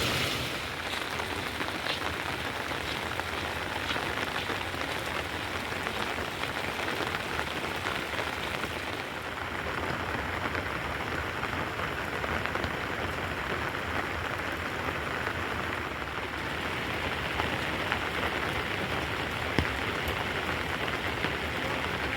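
Steady rain falling, a constant even patter with scattered drop ticks and one sharper tick near the end.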